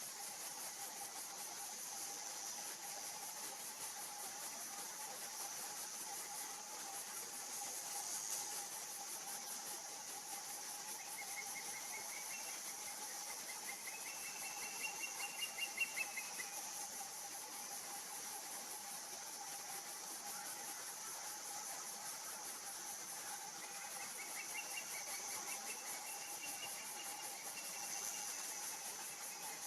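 Juvenile osprey calling for its parent: two runs of rapid, high, repeated whistled notes, one in the middle and one near the end. Steady insect trilling runs underneath.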